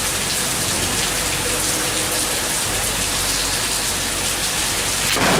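Heavy rain falling steadily in a storm, swelling louder just before the end.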